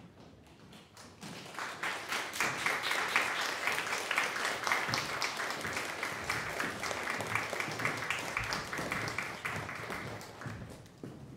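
Audience applauding: the clapping swells about a second in, holds steady, then dies away near the end.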